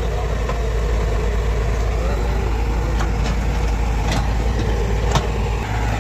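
Excavator's diesel engine running steadily, with sharp knocks about three, four and five seconds in.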